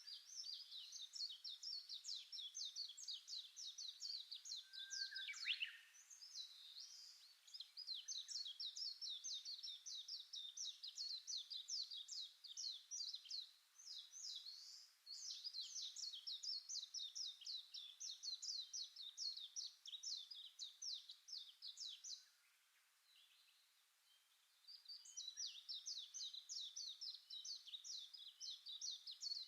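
A small songbird singing long, fast runs of high, repeated chirping notes, with short pauses between the runs: one near the start, a longer one about two-thirds of the way through.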